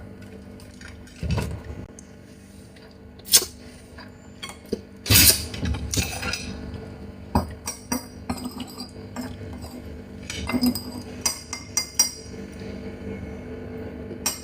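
Shell of a cooked Chinese mitten crab being cracked and picked apart close to the microphone: irregular sharp cracks and clicks, with small clinks.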